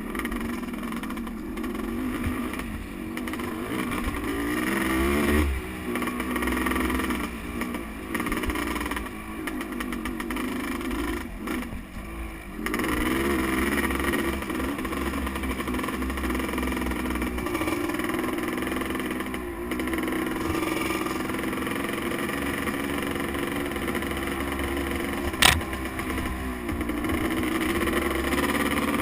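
Motocross motorcycle engine running hard, its pitch rising and falling again and again as the throttle opens and closes and the gears change. There is a sharp knock about 25 seconds in.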